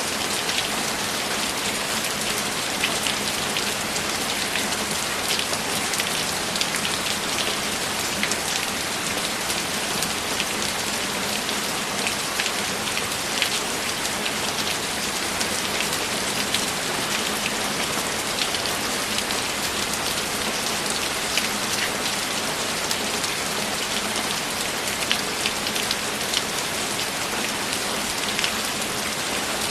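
Steady rain: an even hiss with many scattered drop ticks.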